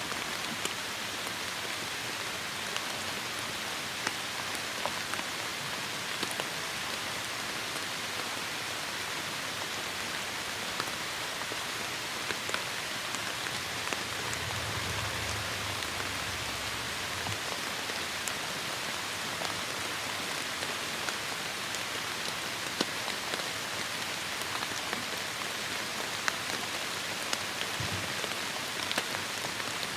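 Heavy rain falling steadily: a dense even hiss with scattered sharp ticks of individual drops, and a brief low rumble about halfway through.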